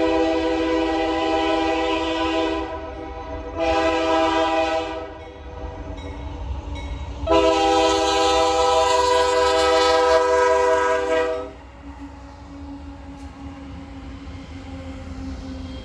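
Chime air horn of a CSX GE AC4400CW freight locomotive sounding a grade-crossing signal. A long blast ends, a short blast follows, then a final long blast cuts off suddenly. After that comes the lower, steady running of the passing train.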